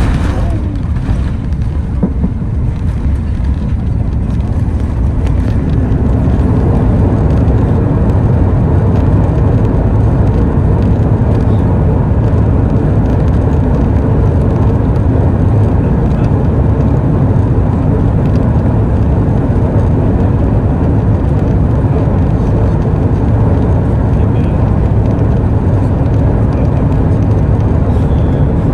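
Steady low rumble of an Airbus A380 heard from inside the economy cabin, the engines and airflow building over the first few seconds and then holding level.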